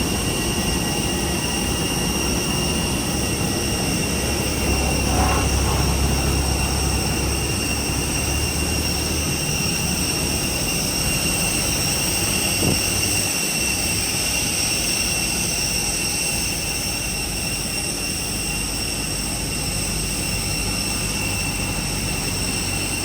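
Steady jet-turbine whine of an airliner: several high tones held level over a low rumble. A deeper hum swells about five seconds in and fades by about ten seconds, and a single sharp knock comes near the middle.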